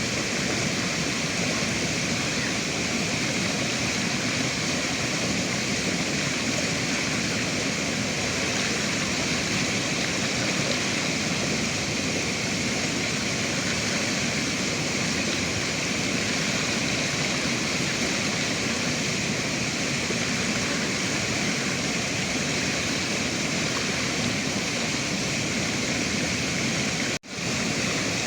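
River water rushing steadily. The sound briefly drops out for an instant about a second before the end.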